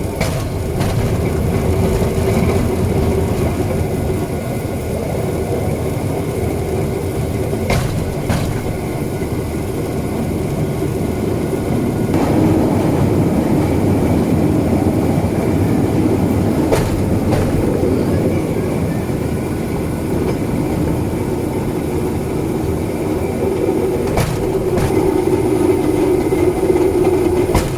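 Rail vehicle rolling along the track: a steady running noise with a held tone, a few sharp clicks from wheels over rail joints, and a louder stretch from about halfway through.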